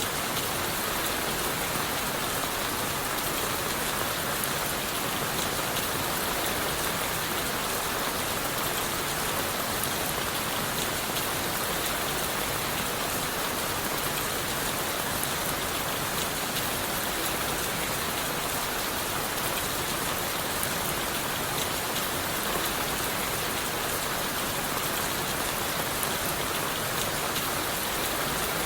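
Steady rain falling on leaves and wood, a dense even hiss with a constant patter of individual drops.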